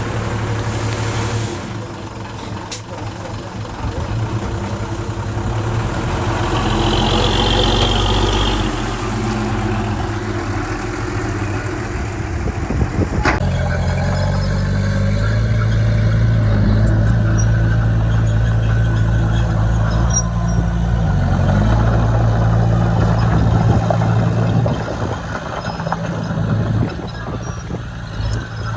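Diesel engines of heavy earthmoving machinery running under load, with a steady low engine drone; the sound shifts abruptly about halfway through to a deeper, steadier engine note.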